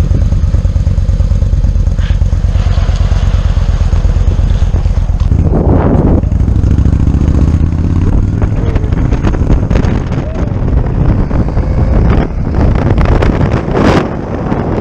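Yamaha V-Star 950 V-twin motorcycle engine running with a steady low pulse, then accelerating about five seconds in, with wind noise on the microphone as it picks up speed.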